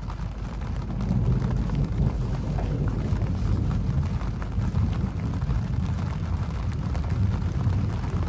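Rainstorm: a steady rush of rain with scattered drop ticks over a low rumble, growing louder about a second in.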